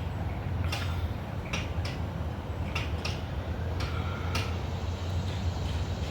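A steady low rumble, like wind buffeting the microphone, with about seven sharp clicks and ticks at irregular intervals.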